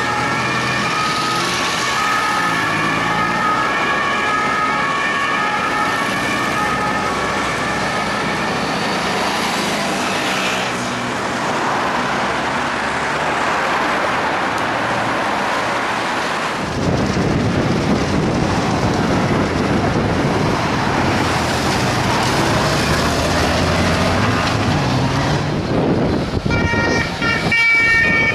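French police two-tone siren on police motorcycles, alternating high and low notes, fading out after about nine seconds. Engine and road noise follow, getting louder partway through, and the siren comes back near the end.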